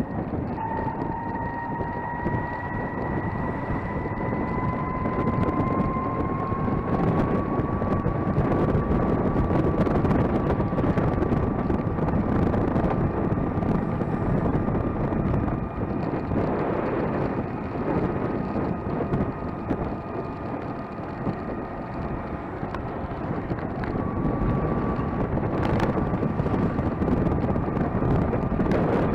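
Gogoro 2 electric scooter on the move: its electric motor whines, rising slowly in pitch over the first several seconds as it gathers speed, then holding steady. Heavy wind buffeting on the microphone and road noise run underneath.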